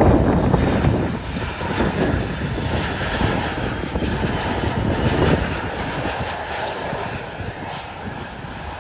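Airliner's jet engines passing and fading away, with wind buffeting the microphone.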